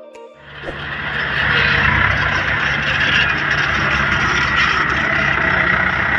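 Toyota Dyna dump truck's diesel engine running steadily, starting about half a second in, under a dense steady noise.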